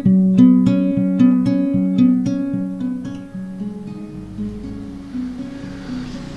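Acoustic guitar music: a run of plucked notes a few per second, thinning out after about four seconds as a soft, steady hiss comes in beneath them.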